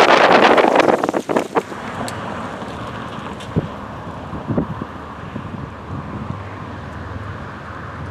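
Norfolk Southern freight train of loaded grain hoppers passing a grade crossing. A loud rushing noise drops away sharply about a second in, leaving the steady rumble of the cars rolling by, with a few clunks and wind on the microphone.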